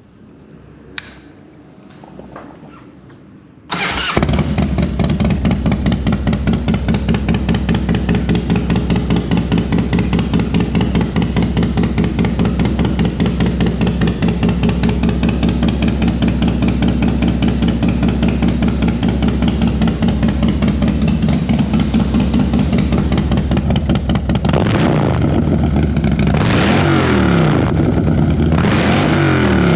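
Harley-Davidson Softail V-twin through a 2-into-1 Smoke Mufflers exhaust, starting up and catching about four seconds in. It idles with a deep, lumpy, pulsing beat from its stage 2 cams, then is revved up and down a few times near the end.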